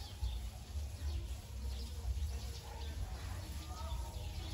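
Faint bird chirps over a steady low rumble and light rustling in tall grass.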